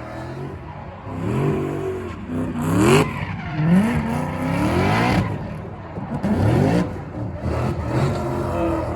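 Drift car engine revving hard, its pitch climbing again and again in several quick pulls, with broad hissing bursts in between.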